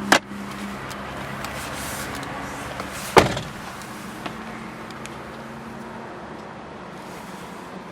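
Car glove compartment lid clicking at its latch, then snapping shut with a sharp thump about three seconds in, over a steady low hum in the cabin.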